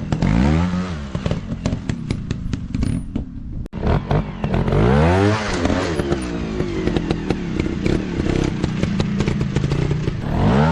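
Off-road dirt bike engines revving up and down, the pitch rising and falling several times, with clattering and scraping over a steady running note.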